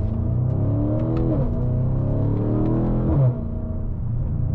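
BMW M550i twin-turbo V8 accelerating in sport mode, its pitch climbing and dropping twice as the automatic gearbox upshifts, the second pull the loudest just before the shift.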